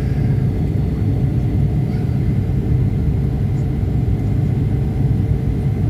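Airliner cabin noise during the approach into Frankfurt: a steady low rumble of engines and airflow with a few faint steady tones above it.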